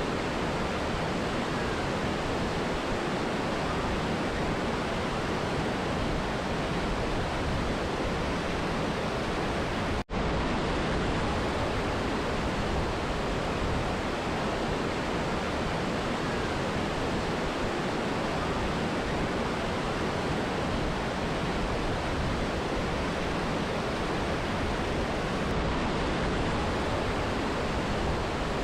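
Steady rushing water of a mountain river and waterfall, an even noise with no change, broken by a split-second dropout about ten seconds in.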